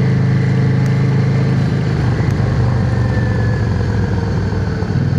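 Yamaha XVS650's air-cooled V-twin engine running under way on the road. Its steady low note turns rougher and less even from about two seconds in.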